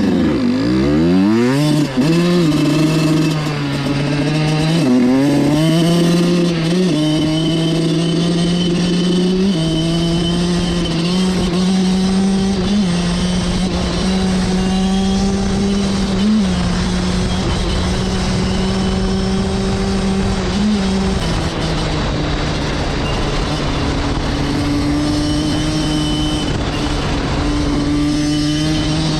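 Suzuki RM85's 85cc two-stroke single-cylinder engine under way on the dirt bike. Its pitch sweeps up and down quickly as it pulls away, then it runs at a steady high pitch with small jumps, settling a little lower about three-quarters of the way through.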